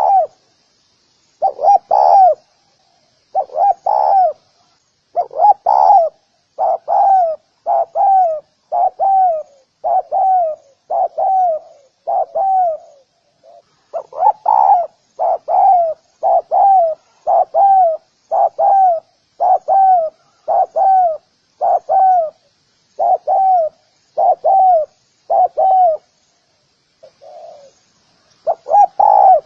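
Spotted dove giving its rapid cooing call: a long run of short, arching coo notes, about one a second, with a few brief pauses. This is the call used to spur a decoy dove into cooing.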